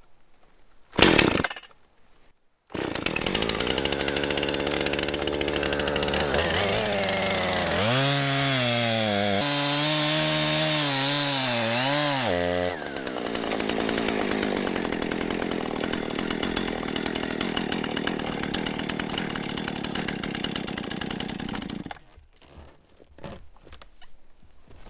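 Husqvarna 455 Rancher chainsaw starting after a brief loud sound, then running at full throttle as it cuts through a fallen tree trunk. Its pitch wavers up and down as the chain bogs in the wood, and the saw cuts off abruptly near the end.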